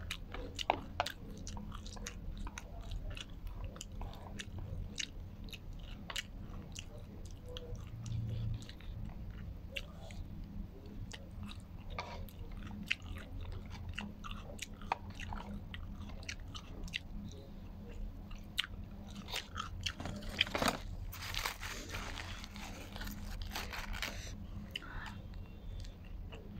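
Close-up chewing and biting with wet mouth clicks, food being eaten with chopsticks from a plastic container and then a shawarma wrap. About three quarters of the way in there is a few seconds of crinkling packaging.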